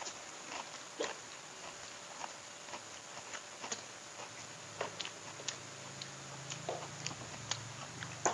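Close-up eating sounds: scattered wet clicks and smacks of chewing fried catfish and picking at it by hand. A low hum comes in about five seconds in.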